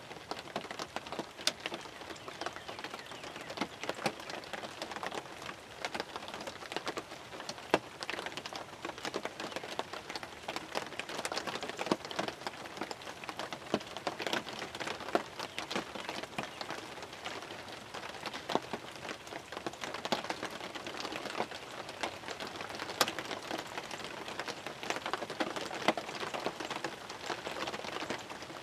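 Steady, hard rain, with many individual drops tapping sharply on the fabric of a hunting ground blind.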